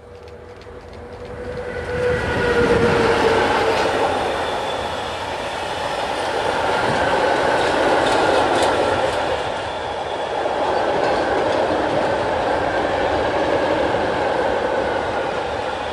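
Freight train hauled by an ET22 electric locomotive passing close by: a steady whine from the locomotive dips in pitch as it goes by about three seconds in, then the loaded wagons roll past with a continuous rumble and clatter of wheels over the rails.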